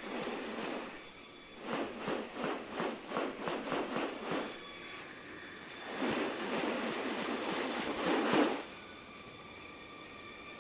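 Rainforest ambience: a steady high insect drone. Over it comes a run of about ten short noisy rasps at roughly three a second, then two longer rasping bursts near the end, the last one loudest.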